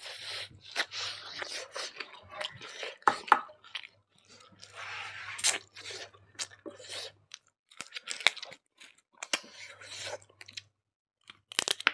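Close-miked chewing and crunching of chicken curry and rice eaten by hand, wet smacking mixed with sharp crunches; a short lull near the end.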